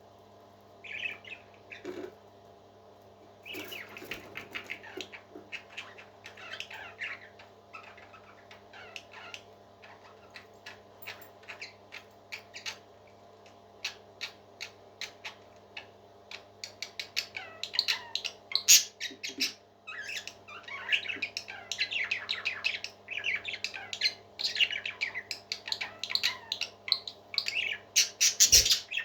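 Parrot chirping in rapid short high chirps, sparse at first and growing denser and louder from about halfway, over a steady low hum.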